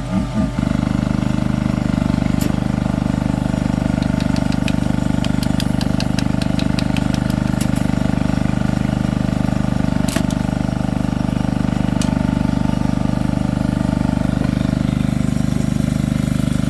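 An engine running steadily at idle, with a run of light clicks about four to seven seconds in and a sharp knock about ten seconds in.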